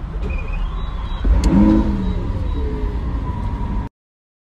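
Lamborghini engine heard from inside the cabin, running with a deep rumble. It swells into a brief rev about a second and a half in, which falls away in pitch. The sound cuts off abruptly near the end.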